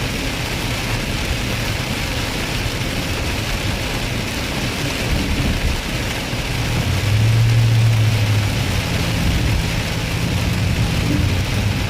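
Vehicle driving through heavy rain: a steady hiss of rain and tyres on the wet road, with a low engine drone that grows louder about seven seconds in.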